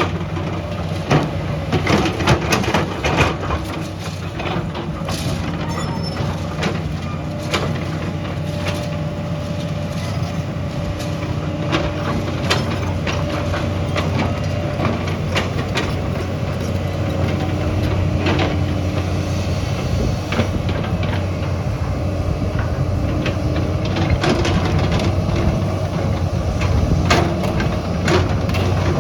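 A heavy construction machine's diesel engine running steadily under load. Over it come many sharp knocks and cracks of rock and gravel being broken and shifted.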